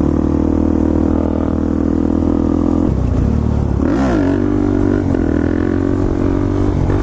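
Motorcycle engine running at a steady speed while being ridden. The sound breaks off briefly near three seconds in, then dips and climbs in pitch about a second later before settling again.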